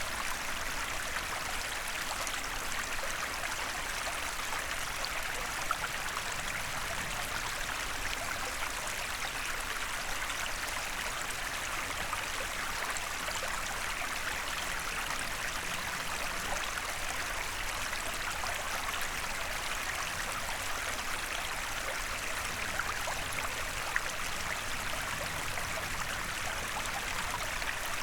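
Small forest stream flowing steadily over stones, a continuous babbling rush of water with small splashes and trickles.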